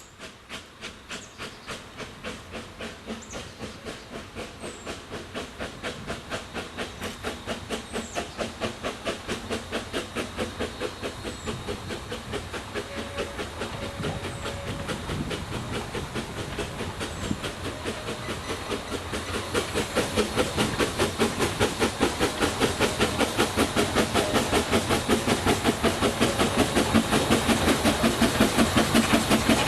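Corpet-Louvet 040T metre-gauge steam tank locomotive working a train, its exhaust beating in a quick, even rhythm that grows steadily louder as it approaches.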